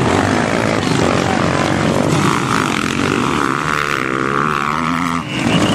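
Motocross bike engines revving on the track, their pitch rising and falling as the riders work the throttle, with a brief dip about five seconds in.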